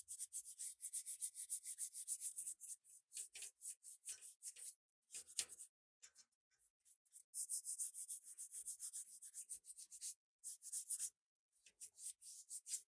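Hand sanding of a metal rivet-gun part with an abrasive, in quick back-and-forth strokes of about five a second, with a pause of about a second midway and a few shorter breaks.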